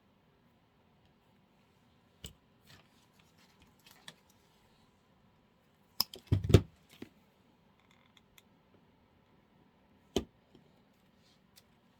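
Scattered short clicks and snips from handling and trimming craft materials at a table. The loudest is a brief clatter with a knock about six seconds in.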